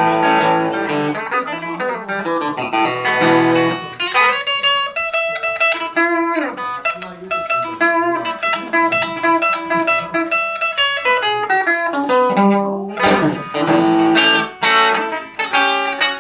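Telecaster electric guitar through a Roland JC-120 amp playing a blues instrumental break: picked single-note lines with ringing held notes and chords, no singing.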